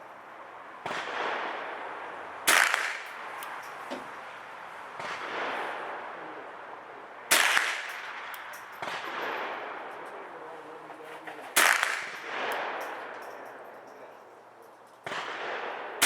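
SIG 522 .22 rimfire rifle fired in slow single shots, a loud shot about every four to five seconds, each trailing off in echo. Quieter gunshots fall between them.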